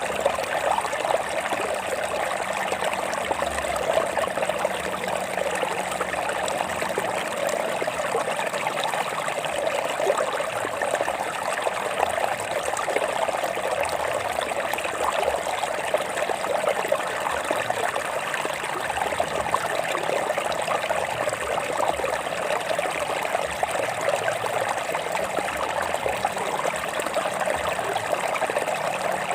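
Stream water flowing and trickling over rocks: a steady, unbroken rush, strongest in the middle pitches.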